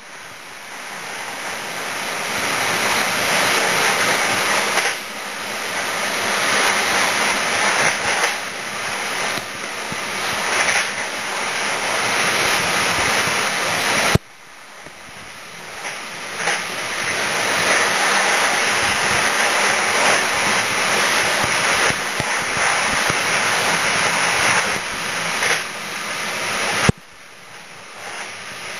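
Steady rush of air and wheels on rail from a train running at speed, building gradually in loudness and dropping off suddenly twice, about halfway and near the end, before building again.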